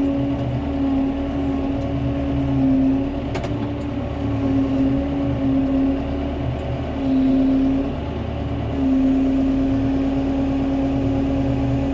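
John Deere 5100M tractor's diesel engine running steadily, its note wavering slightly as the tractor works a heavy log on its forks.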